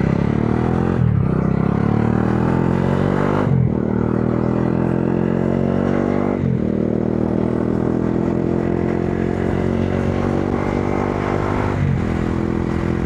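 Modenas Dominar 400's single-cylinder engine accelerating through the gears: the pitch climbs steadily, with four brief dips where it upshifts.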